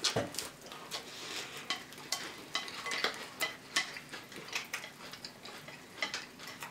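Spoons clinking and scraping against bowls of cereal and milk while eating, irregular small taps several a second.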